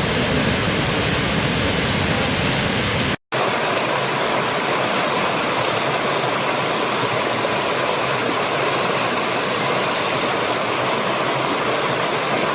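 Waterfall: a loud, steady rush of falling water, with a split-second dropout about three seconds in where one waterfall recording cuts to another.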